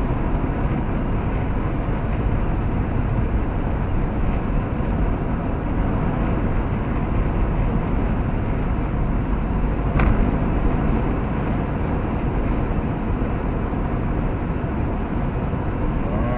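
Steady road and engine noise inside a moving car's cabin, with a single sharp click about ten seconds in.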